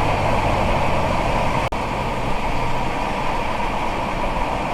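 Steady road noise inside a car cruising at about 60 mph on a wet highway: tyres hissing through water, engine and heater fan running. A split-second dropout breaks it a little under two seconds in.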